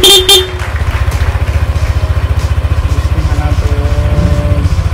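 Yamaha NMAX 155 scooter's single-cylinder four-stroke engine idling with a steady low pulse, its electric horn giving two short beeps right at the start as the newly fitted switch is tested.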